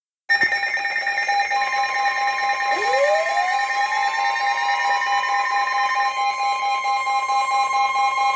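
NOAA Weather Radio alert tones: several steady electronic alarm tones sounding together, some beeping in pulses. About two and a half seconds in, a tone glides upward and settles into the long steady weather-radio warning alarm tone that signals a warning is about to be read.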